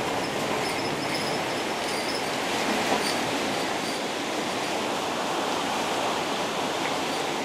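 Steady hiss of torrential thunderstorm rain on a city bus, heard from inside the cabin as the bus moves through floodwater, with a few faint high squeaks in the first couple of seconds.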